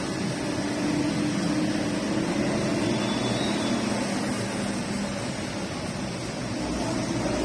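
Steady rain hiss with a low, steady hum underneath.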